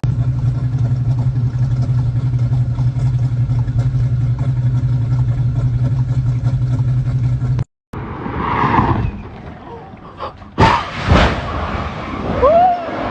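Car engine running at a steady, unchanging pitch that cuts off abruptly about seven and a half seconds in. After a short silence come scattered knocks and a brief squealing glide.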